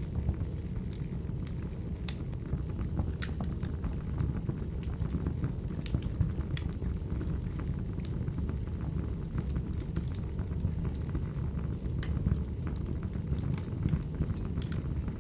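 Wood fire burning steadily: a low rush of flames with irregular sharp crackles and pops from the burning logs.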